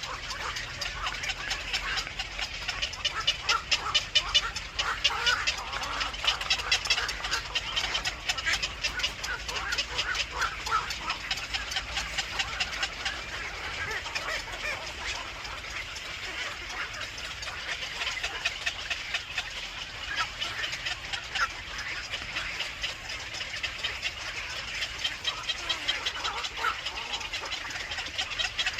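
Small birds chirping rapidly and without a break, many short high notes a second, a little louder in the first half.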